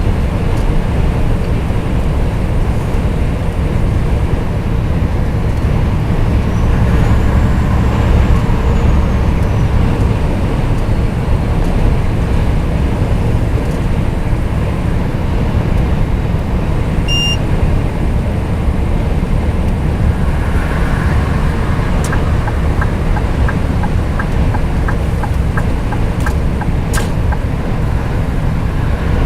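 Scania R420 truck driving, a steady low engine and road rumble. A short electronic beep sounds about two-thirds of the way through, and a run of regular ticks follows near the end.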